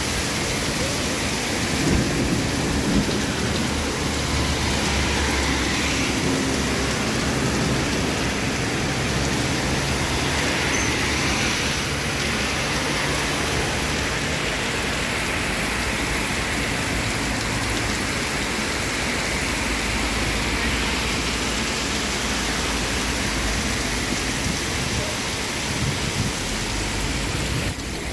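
Heavy rain pouring down steadily, with low rumbles of thunder, the strongest about two to three seconds in.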